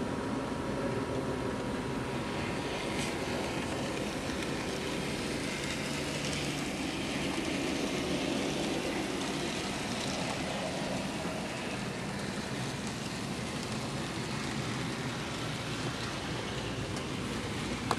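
N-scale model train running along the layout track, a steady motor hum and rolling wheel noise with faint ticks.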